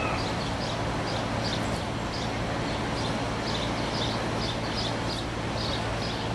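City street ambience: a steady low engine hum and traffic noise, with small birds chirping in short, quick, repeated notes over it.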